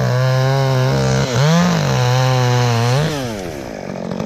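Chainsaw held at full throttle cutting through a limb, its pitch dipping and coming back up once about a second in. Near the end the throttle is let off and the engine winds down to idle.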